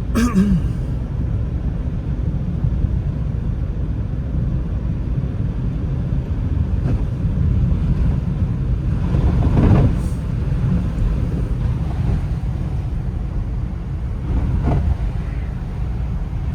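Steady low rumble of a car driving, with a few faint brief knocks.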